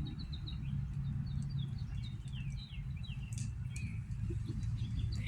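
Small birds chirping, a run of repeated short falling chirps, over a steady low hum.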